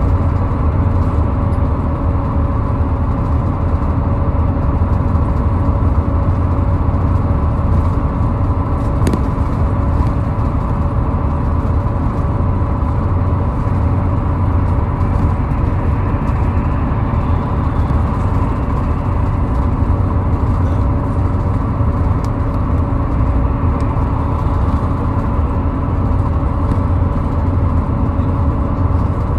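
Steady low rumble of a car driving at highway speed, engine and tyre noise holding even with no gear changes or passing events.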